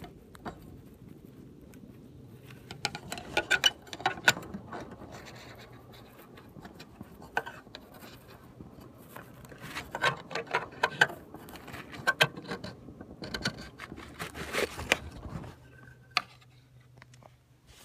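Irregular scraping, tapping and rattling in clusters, over a steady low hum.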